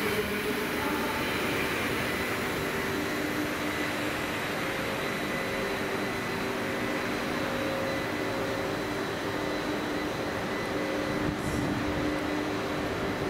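Double-deck TGV high-speed train rolling slowly past a platform, giving a steady rushing noise with a constant hum and whine from its traction equipment.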